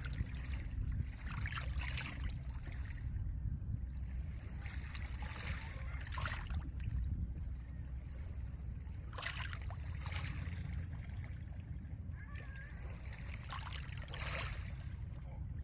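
Small lake waves washing onto a pebble shore, each wash a brief hiss that comes every few seconds, over a steady low rumble of wind.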